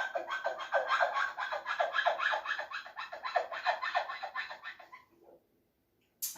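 Rapid rhythmic scratching or rubbing, about five strokes a second, that stops about five seconds in; a single sharp click follows near the end.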